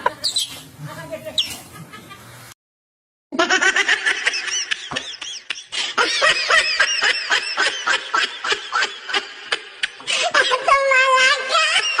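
High-pitched laughter in a rapid run of short bursts that sets in about three seconds in, after a brief gap of silence.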